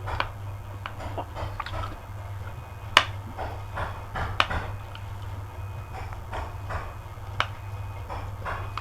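Close chewing of crispy kerupuk (fried crackers): an irregular run of crisp crunches with a few sharper, louder cracks, over a steady low hum.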